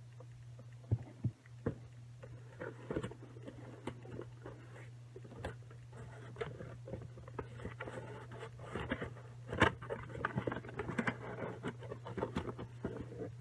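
Hands working a toy parrot out of its packaging and fitting its parts together: scattered clicks, knocks and scrapes, a few sharp ones about a second in and the loudest near the middle, growing busier toward the end, over a steady low hum.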